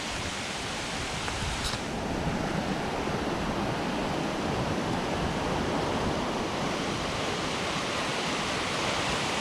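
Steady rushing of fast, swollen floodwater in a stream.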